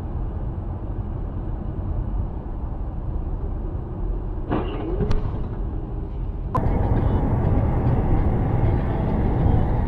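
Steady low rumble of a vehicle driving, engine and road noise. A brief sharp click about five seconds in, then a sharp knock about two-thirds of the way through, after which the rumble is louder.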